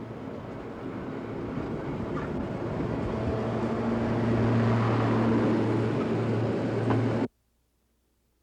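A vehicle running and growing steadily louder, with a low steady hum. The sound cuts off abruptly about seven seconds in.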